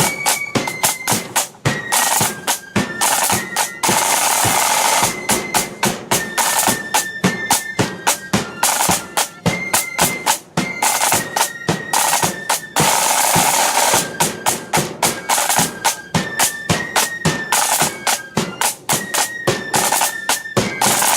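Blood-and-thunder flute band playing a march: massed flutes carry a high melody over snare drums beating out sharp rhythms and rolls, with a bass drum underneath.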